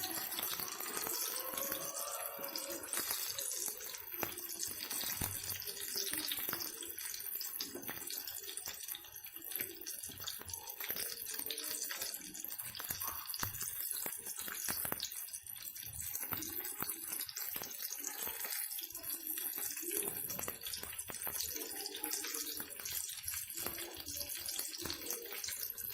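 Vegetable 'fish' patties frying in hot oil in a pan: a steady sizzle with dense fine crackling, as they finish turning golden.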